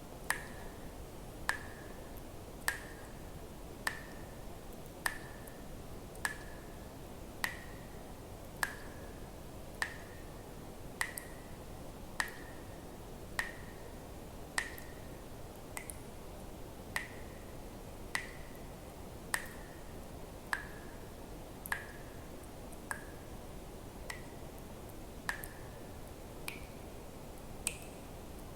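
Water drops falling one at a time into water at an even pace, about one every 1.2 seconds, each a sharp plink with a short ringing tone; the last few ring higher. A faint steady hiss lies underneath.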